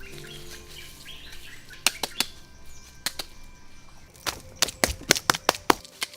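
Sharp, irregular knocks from hand building work: a few single strikes, then a quick run of about a dozen near the end. Soft background music plays under the first part.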